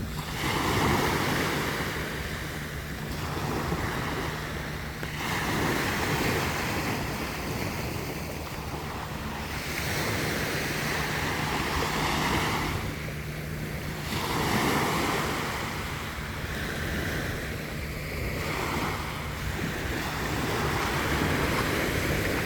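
Gentle sea waves breaking and washing up a sandy beach, swelling and easing every few seconds, with wind buffeting the microphone.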